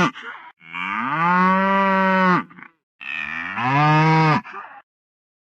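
Domestic cow mooing: the end of one moo, then two long, steady moos of about two seconds each, with silence near the end.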